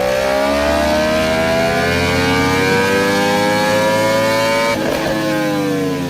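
Vehicle engine revving, its pitch climbing steadily for almost five seconds, then breaking off and falling away.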